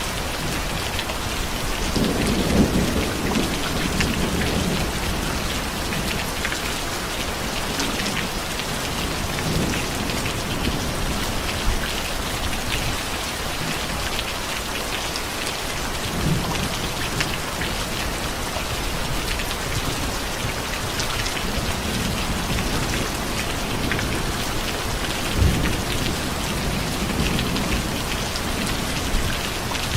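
Steady heavy rain pattering on surfaces, with low rumbles of thunder rolling in several times, the strongest a few seconds in and again near the end.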